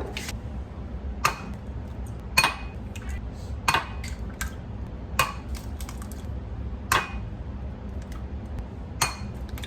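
Dishes and utensils clinking: about seven separate sharp knocks spaced a second or two apart, over a steady low hum.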